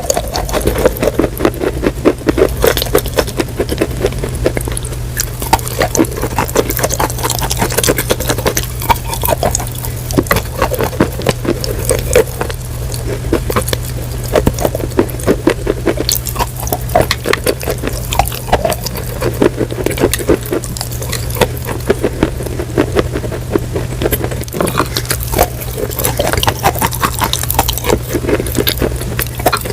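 Close-miked crunching and chewing: a dense, irregular run of crackles and crisp clicks, with a steady low hum underneath.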